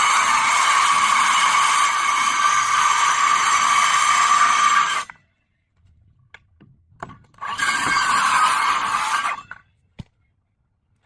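Circular saw cutting plywood: it runs steadily through a long cut and stops abruptly about five seconds in. After a short pause it cuts again for about two seconds. A single sharp click comes near the end.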